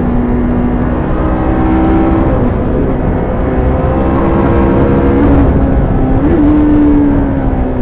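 Stock Yamaha YZF-R3's 321 cc parallel-twin engine and exhaust pulling at fairly steady revs, with small rises and dips in pitch, then easing off near the end, over low wind rumble.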